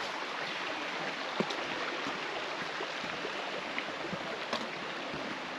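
Flowing water of a stream, a steady rushing, with a few faint small clicks over it.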